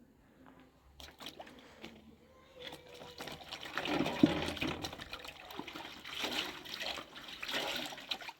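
Water splashing and pouring in several bursts, the loudest about four seconds in, as things are washed by hand in water. A few knocks about a second in.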